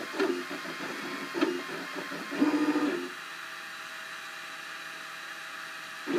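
Cubify 3D printer's stepper motors singing as the print head moves, in short pitched runs that change note every fraction of a second with light ticks. About three seconds in they settle into a quieter, steady higher whine.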